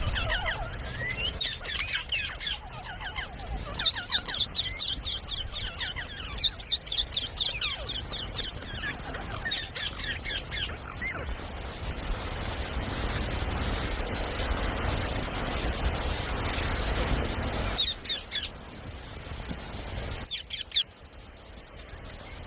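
Ringneck parrot calling in rapid runs of shrill, high chirps. The calls stop for several seconds and return as two short screeches near the end.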